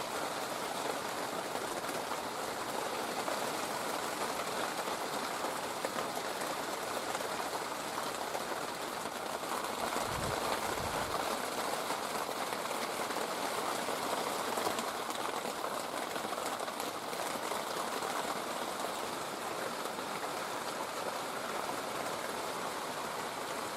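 Steady rain falling, an even hiss, with a brief low thump about ten seconds in.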